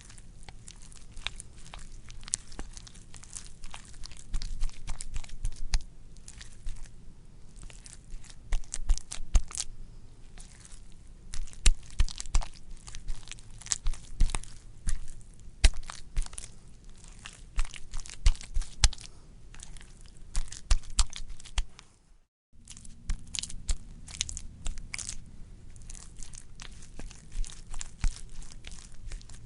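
Wet, squishy squelching: a dense, irregular run of crackles and small pops, with a short break about 22 seconds in.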